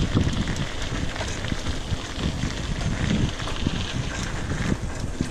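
Wind buffeting the microphone over the steady rolling rattle and small ticks of a mountain bike riding along a trail.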